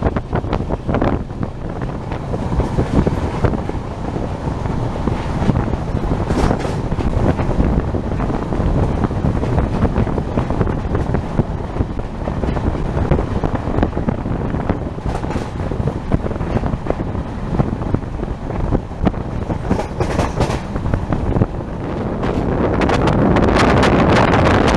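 Wind buffeting the microphone from a moving passenger train, over the coach's running noise, with scattered short knocks. The noise swells louder over the last couple of seconds.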